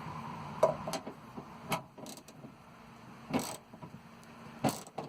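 A hand tool tightening the mounting bolt of a car's exterior door handle inside the door: a handful of short metallic clicks and knocks at uneven intervals, the two loudest in the second half.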